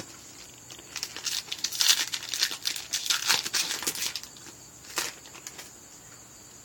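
Foil booster pack wrapper crinkling and crackling for about three seconds, then one short sharp crinkle about five seconds in.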